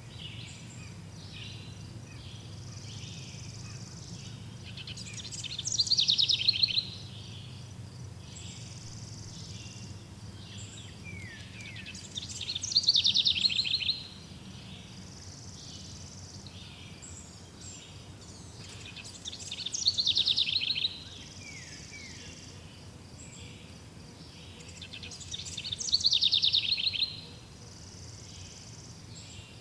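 A songbird sings the same fast, downward-sweeping trill four times, about every seven seconds, each phrase lasting about a second and a half. Between the phrases there is continuous softer high chirping from insects and other birds.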